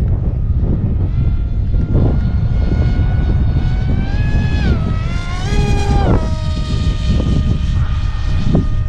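Electric motor and pusher propeller of a small RC plane whining in flight, the pitch climbing and wobbling with the throttle, then dropping sharply about six seconds in as the plane passes by and settling to a steady lower tone. Wind rumbles on the microphone throughout.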